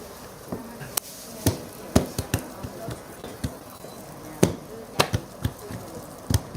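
A cleaver chopping on a wooden board while food is prepared: about fifteen sharp, irregular strokes, with the hardest about 2 and 4.5 seconds in.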